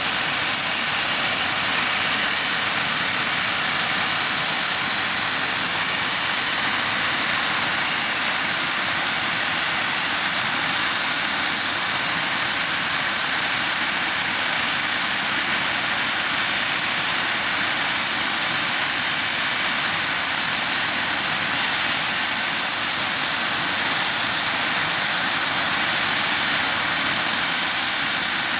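Hawker Siddeley Nimrod's Rolls-Royce Spey turbofan engines running steadily on a ground run: a loud, even jet rush with a high steady whine that does not change.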